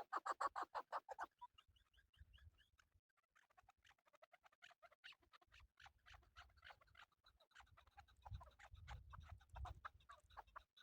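Male chukar partridge calling: a loud, rapid run of clucking chuk notes in the first second or so, then fainter, irregular chuk notes continuing.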